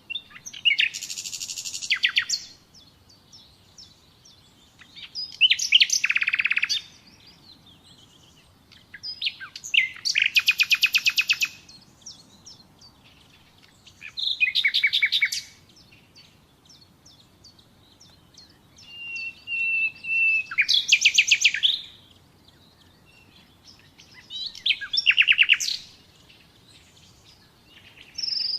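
Common nightingale singing: six short phrases of rapid repeated notes and trills, each two to three seconds long with a pause between. A little past halfway, one phrase opens with a long, steady whistle.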